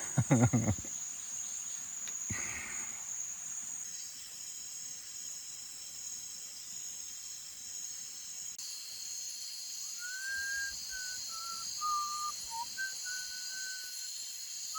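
Evening insect chorus of cicadas and crickets, a steady high buzz that shifts in pitch twice. From about ten seconds in, a run of clear whistled notes joins it, stepping down in pitch.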